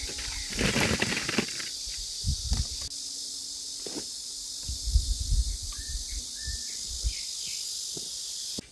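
A steady, high-pitched chorus of insects, with scattered low knocks and rustling from handling nearby; the chorus cuts off abruptly near the end.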